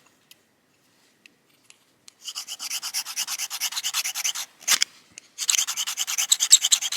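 Fast, rhythmic scraping in two bouts of about two seconds each, with a single knock between them.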